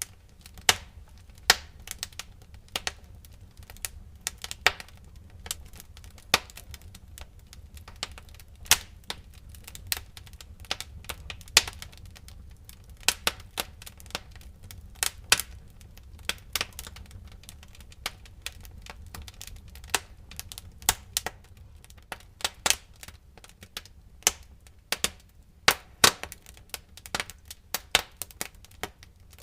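Burning firewood crackling in a fireplace: irregular sharp pops and snaps, some much louder than others, over a low steady rumble.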